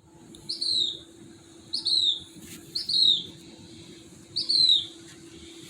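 A bird calling, giving a short high note that drops in pitch four times, spaced about a second or more apart. A steady low hum runs underneath.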